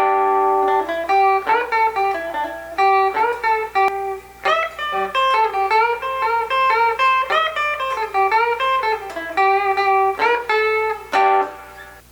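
Fender Stratocaster electric guitar played clean through its bridge pickup, a riff of picked single notes and chords, with the bridge pickup's newly added tone control set at about 6.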